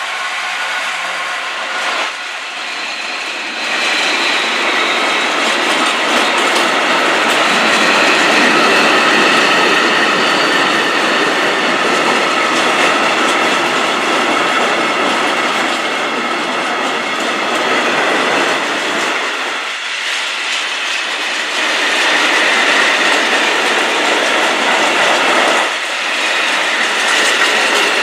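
Freight wagons of a long, slow freight train rolling past, their wheels clattering over the rails with a steady high-pitched wheel squeal.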